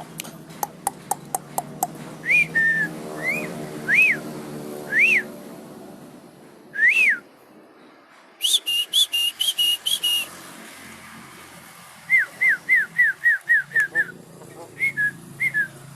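Javan myna calling: single clear whistled notes that rise and fall, with sharp clicks between them. Near the middle comes a rapid harsh chattering run, and near the end a quick series of about eight falling whistles.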